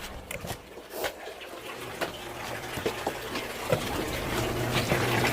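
Water running from a tap into a bathtub, a steady rush that grows louder over the second half, with a low steady hum underneath.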